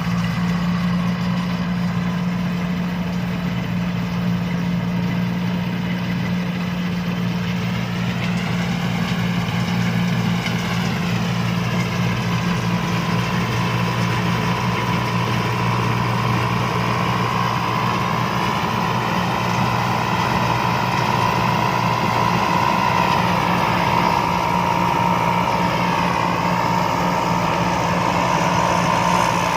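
Combine harvester's diesel engine running steadily, with a higher whine that slowly rises and falls in pitch a few times.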